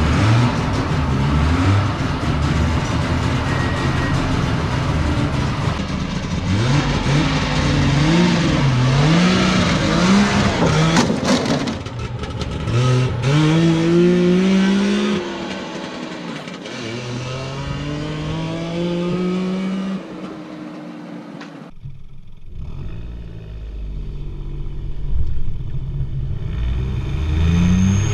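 Three-cylinder car engines revving and accelerating hard, the pitch climbing repeatedly with short drops between climbs like gear changes. About two-thirds of the way through the sound cuts abruptly to a duller recording, and another rising rev starts near the end.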